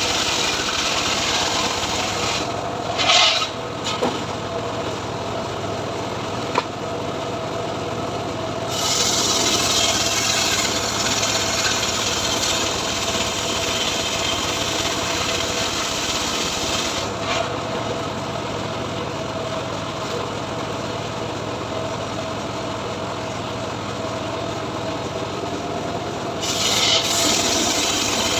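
Homemade engine-driven sawmill blade cutting steadily lengthwise through a mahogany log: a continuous rasping saw noise over a steady engine tone, with a couple of sharp knocks early on.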